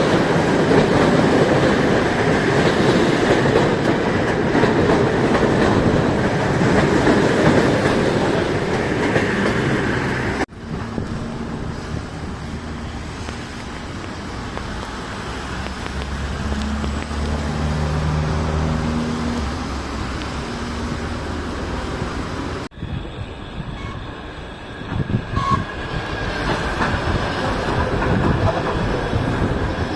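Railway trains on the track: a loud train running close by, then after a sudden cut a quieter stretch with a steady low hum, then after another cut a train moving again with uneven low knocks.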